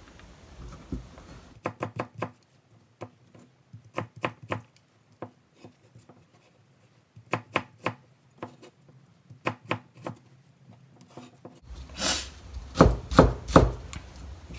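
Kitchen knife chopping cucumber into thin strips on a cutting board, in short runs of quick strokes. The strokes come louder and closer together near the end.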